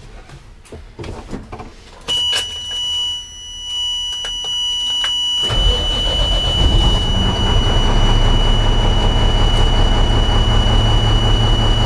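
2002 Mack E-Tech diesel engine in a truck cranking briefly and catching about five and a half seconds in, then running steadily; the long-crank fault is cured, but the engine still has a miss, which the mechanic suspects is an injector or unit pump (EUP). A steady high-pitched dash warning buzzer sounds from about two seconds in.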